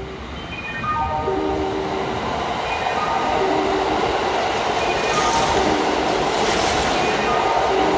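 Kintetsu 80000 series 'Hinotori' limited express electric train running through an underground station without stopping. Its running noise builds as the cars rush past, from about five seconds in. A falling run of steady tones plays in the first two seconds.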